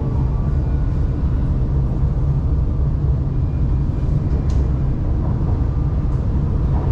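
Shanghai Metro Line 2 train's steady low rumble, heard from aboard the train.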